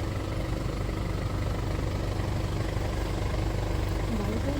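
Safari vehicle's engine running steadily at low revs, a constant low engine noise with no change in pitch.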